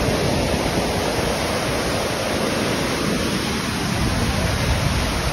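Steady, loud rush of the Wachirathan waterfall's heavy flow of water pouring down.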